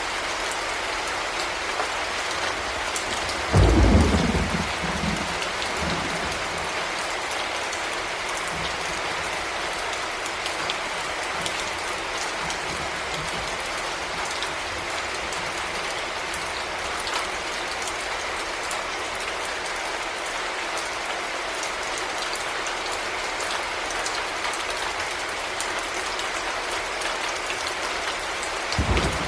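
Heavy rain falling steadily, with a loud clap of thunder about four seconds in that rumbles away over the next two seconds, and a shorter low thunder burst near the end.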